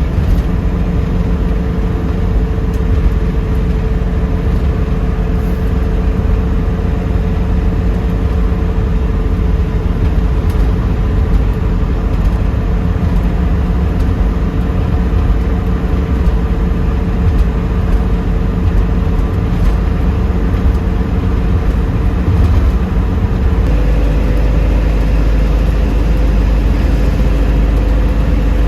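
A 1972 Ford Mustang Mach 1's V8 and road noise at steady highway cruise, heard from inside the car as a constant low rumble. About 23 seconds in, the rumble grows stronger and the engine note steps up slightly.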